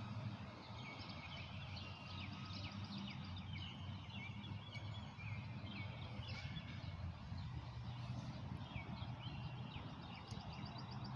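Small birds chirping and trilling in quick repeated phrases, over a steady low background hum.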